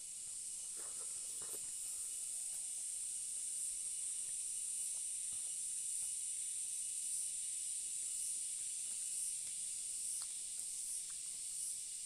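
Steady high-pitched hiss with a few faint soft clicks.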